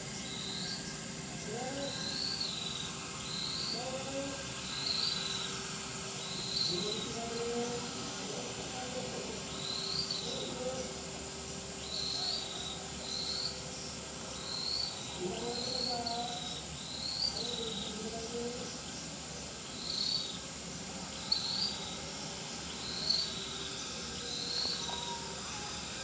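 Insects chirping: a short high chirp repeats about once a second over a steady high-pitched insect drone, with faint distant voices underneath.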